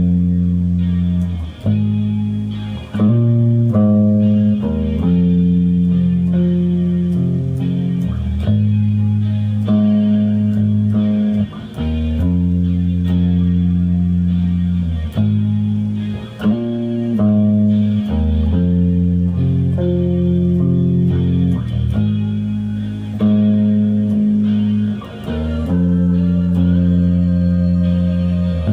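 Guitar playing sustained chords and riffs that change every second or two, with no singing.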